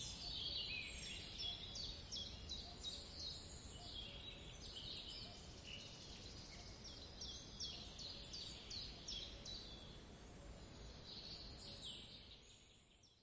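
Forest ambience of many small birds chirping and singing in quick short phrases over a low rumble, fading out near the end.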